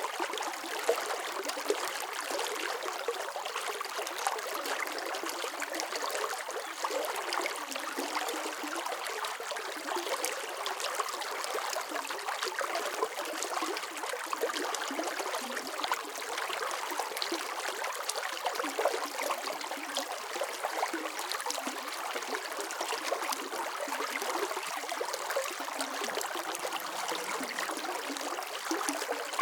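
Running water flowing steadily in a stream, an even rushing noise with small splashes and trickles throughout.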